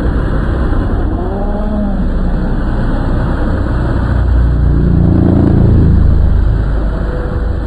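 Air Tractor AT-502's turboprop engine and propeller running loudly, swelling to a peak about five to six seconds in and then easing off.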